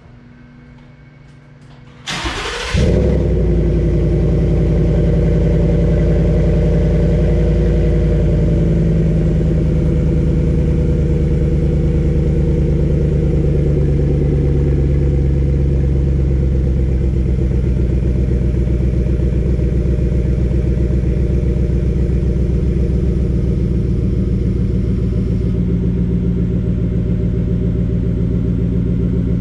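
2018 Ford F-150's V8 fitted with a new MBRP cat-back exhaust, started up: a short burst of starter cranking about two seconds in, then the engine catches and idles with a deep, loud exhaust note. The fast idle after start-up eases down over the next several seconds and then holds steady.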